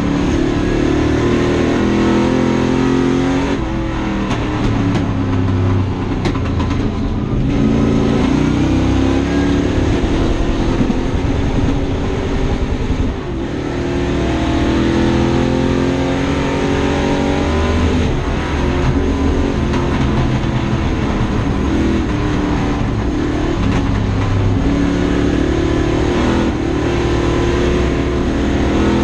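Race-prepared 1959 Ford Thunderbird's V8 engine under hard acceleration, heard from inside the cabin: the revs climb and drop repeatedly through gear changes, with a short lift about halfway through.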